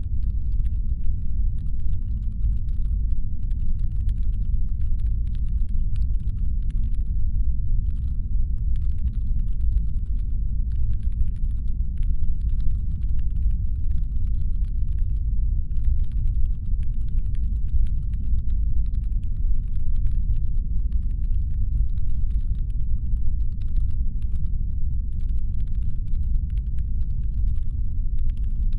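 Deep, steady brown-noise rumble standing in for a spaceship's engine hum, with faint, irregular clicking scattered high above it.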